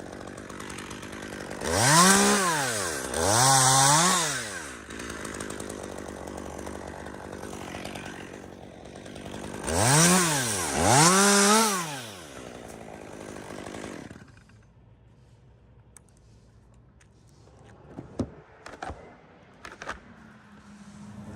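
Chainsaw revved up and down four times, in two pairs, idling in between while cutting dead spruce, then shut off about two-thirds of the way through. A few sharp knocks follow near the end.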